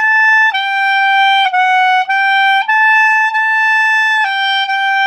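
Solo clarinet playing a slow, unaccompanied melody line: a few sustained notes, then one long held note from about four seconds in.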